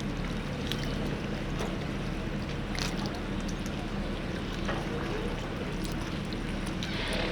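A boat engine running with a steady low hum, with scattered short clicks and knocks over it.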